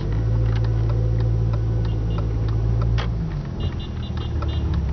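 Rover 75 1.8 Turbo's four-cylinder turbo petrol engine heard from inside the cabin, pulling away from a standstill with a strong steady drone that changes note and eases about three seconds in.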